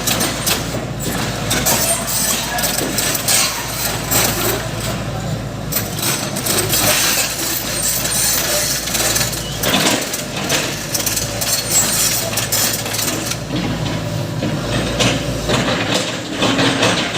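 Backhoe loader's diesel engine running, with loud metallic clanks and knocks several times over its steady noise.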